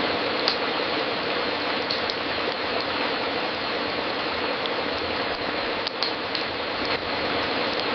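Wood fire crackling in a fireplace: a dense, steady crackle with a few sharper pops.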